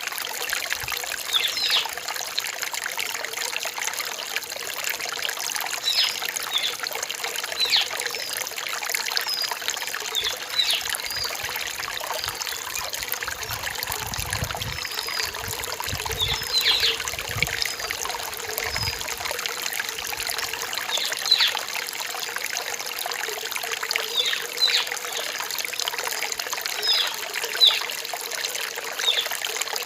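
A small rain-forest stream trickling and splashing over rocks: a steady rush with frequent short, bright plinks of water.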